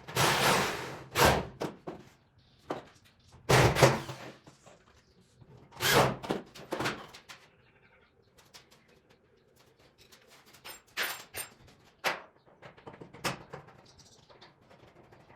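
Irregular knocks and thunks with short scraping noises: three loud ones in the first seven seconds, then a cluster of lighter clicks and knocks.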